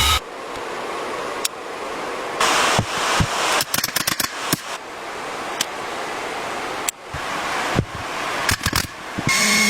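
A steady hiss with scattered sharp knocks and clicks, bunched about four seconds in and again near the end.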